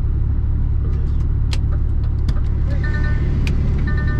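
Truck diesel engine idling steadily, heard from inside the cab, with a few light clicks. About three seconds in, a high electronic beep starts and repeats about once a second.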